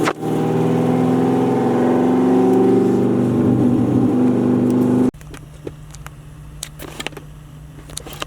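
Corvette's LS2 V8 engine pulling under acceleration, its pitch rising slowly. About five seconds in the engine sound cuts off abruptly, leaving a much quieter steady hum with a few small clicks.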